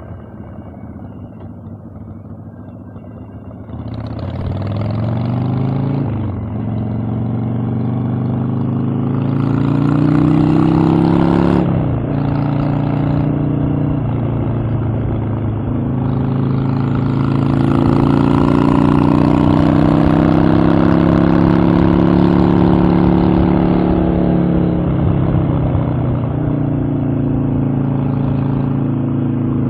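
Harley-Davidson Evolution V-twin motorcycle engine pulling away and accelerating up through the gears. It is quieter and low for the first few seconds. The pitch then climbs and drops back at each gear change, about 6, 12 and 14 seconds in. After that the bike cruises, its pitch slowly rising and falling, with another dip near 25 seconds.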